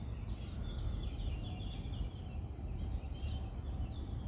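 Birds chirping and trilling in quick short phrases over a steady low rumble.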